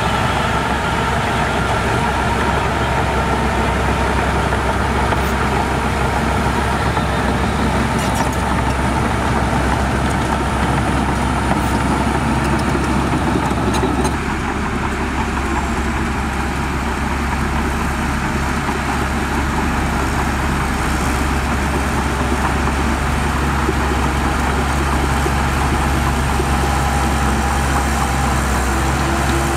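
Heavy diesel engines of earthmoving machinery running steadily, with an abrupt change in the engine sound about halfway through.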